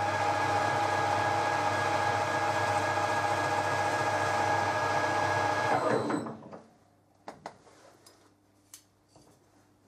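Lathe spindle running at speed with a steady whine, then winding down and stopping about six seconds in. A few light clicks follow.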